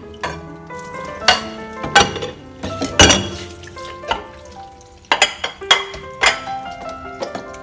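Plates and plastic dishware clattering and knocking in a kitchen sink under a running tap, about eight sharp knocks, the loudest around two and three seconds in, over background music.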